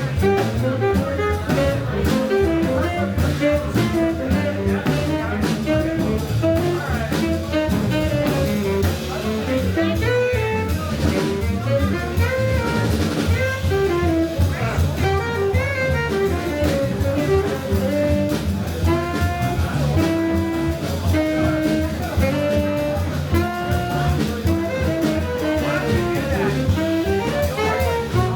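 A live jazz band playing in a bar. A melody line moves and holds notes over a continuous bass and drums.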